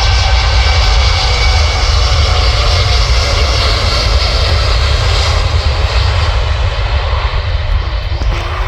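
Jet airliner's engines at take-off power, a loud, steady low rumble with a whine on top, easing slightly near the end as the aircraft departs.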